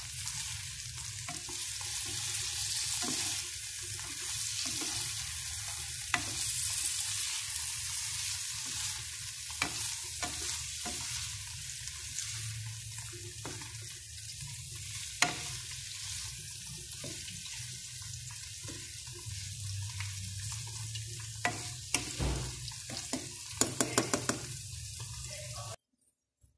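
Tofu cubes and green chilies stir-frying in a nonstick wok: a steady sizzle, with a spatula scraping and knocking against the pan now and then. A quick run of sharp knocks comes near the end, then the sound cuts off suddenly.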